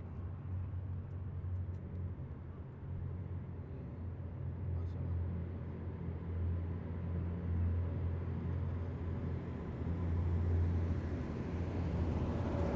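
Engines of heavy military vehicles in a passing column: a steady deep drone that grows louder and fuller toward the end as a vehicle approaches.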